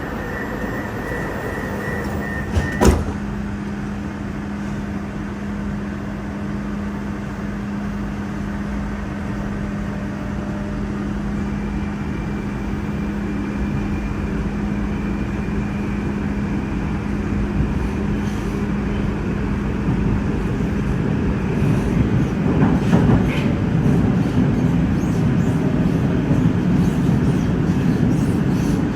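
Moscow metro train at a station stop, with a single sharp knock about three seconds in and a steady low hum. Near the end the running noise grows louder and rougher as the train moves off.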